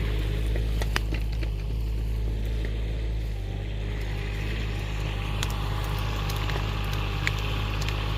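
Excavator engine running steadily under load, with a few sharp cracks of snapping branches or twigs.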